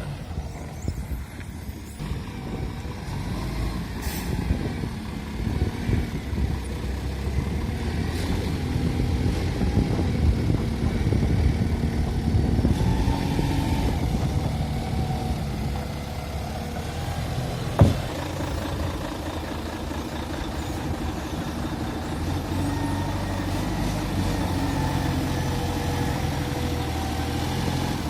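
A heavy vehicle's engine runs steadily, rising a little in the middle, with one sharp metallic knock a little past halfway.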